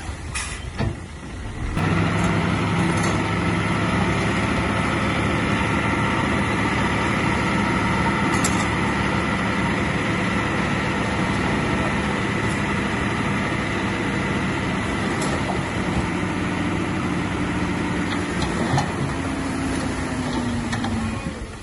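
Heavy diesel engine of earthmoving machinery running steadily. It starts abruptly about two seconds in, with a falling tone near the end.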